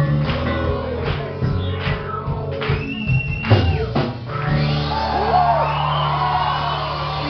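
Live worship band music with a steady beat, and voices of a crowd singing and shouting over it.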